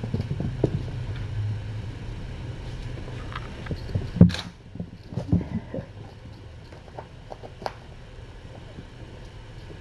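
Kittens playing with toys: scattered small knocks, taps and rustles over a low steady room hum, with one sharp click about four seconds in.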